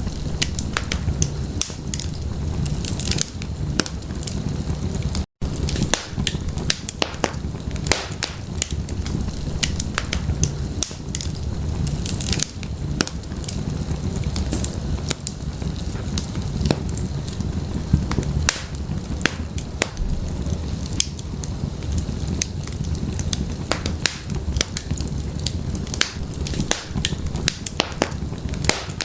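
Wood fire burning in an open fireplace: frequent sharp crackles and pops of firewood over a steady low rumble of flames. The sound cuts out for an instant about five seconds in.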